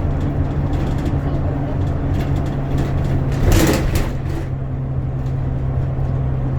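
A bus engine drones steadily with road noise. About three and a half seconds in comes a short, loud hiss.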